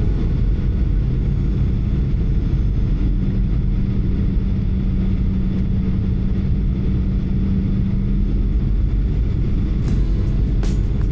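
Boeing 737 cabin noise: the steady roar of the engines and airflow, mostly low, with a steady hum underneath.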